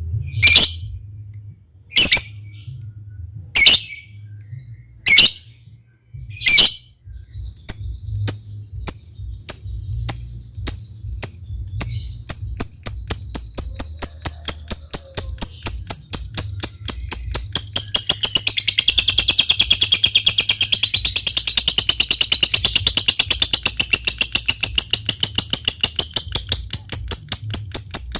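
Lovebird calling: about five loud, sharp chirps roughly a second and a half apart, then a run of quick ticks that speeds up and runs into a long, fast, high trill, loudest in the middle. This is the ticking run leading into the long trill that lovebird keepers call 'ngetik' and 'ngekek panjang'.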